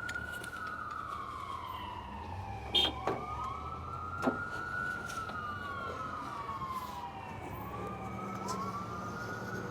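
Emergency vehicle siren on a slow wail, rising and falling in long sweeps, with one sweep starting while the last is still falling. A couple of short knocks come about three and four seconds in.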